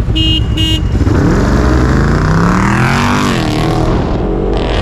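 Two short beeps, then an engine revving hard as a vehicle accelerates in a street race. Its pitch climbs over about two seconds, with a rush of noise as it passes.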